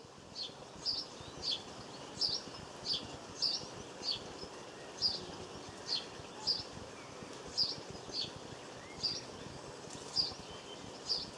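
A small songbird chirping over and over, a short high note every half second to a second, over steady low background noise.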